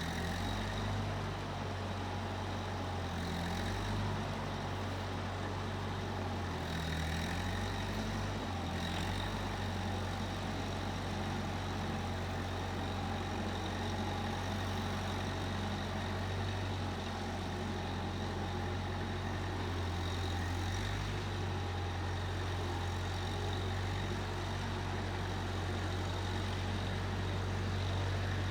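Case 1530 Uni-Loader skid steer engine running steadily with a deep, even hum, shifting slightly in pitch now and then.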